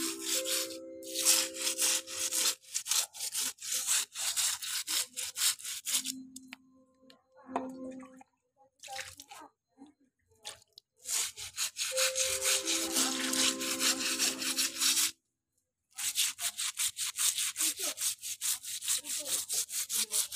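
Stiff brush scrubbing moss off a slippery floor in fast, even strokes, about five a second. The strokes pause around 6 s and resume near 11 s. Twice, a few held musical tones sound over the scrubbing.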